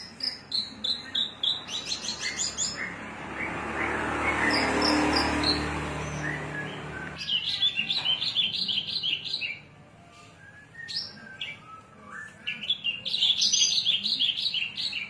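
Javan bush lark (branjangan) singing: rapid runs of short, high, repeated chirping notes, with a pause of a couple of seconds about ten seconds in. Early on a rushing noise with a low hum swells up and fades over about four seconds beneath the song.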